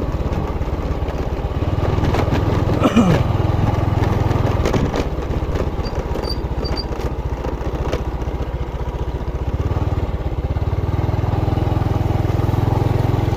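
Motorcycle engine running steadily while riding, with a brief falling tone about three seconds in.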